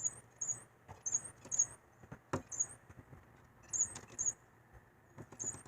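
Short, very high-pitched bird call notes, mostly in pairs about half a second apart, with a few sharp taps in between, typical of a tufted titmouse pecking at a window pane.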